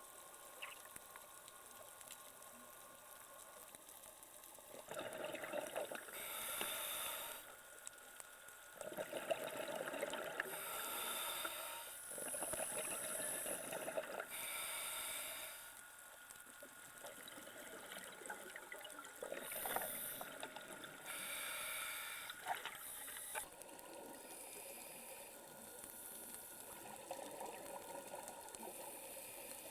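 Scuba diver breathing through a regulator underwater: bursts of bubbling exhaust every few seconds, each lasting a second or two, over a faint steady hiss.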